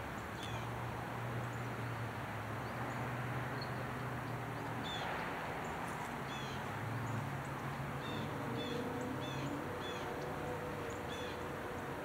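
Birds chirping: short, high, quickly falling notes, often in pairs, about one or two a second and more frequent in the second half, over a steady low hum and hiss of outdoor background noise.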